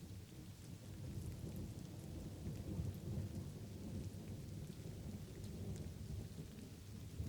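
Light rain pattering, with a low rolling rumble of distant thunder that swells about a second in and carries on under the rain.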